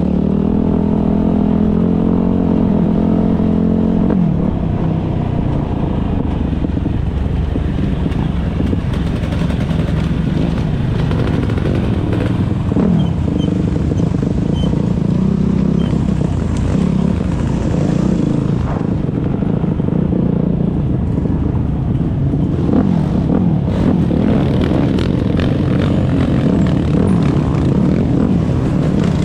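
Motocross bike engines revving while racing, several engine notes rising and falling and overlapping.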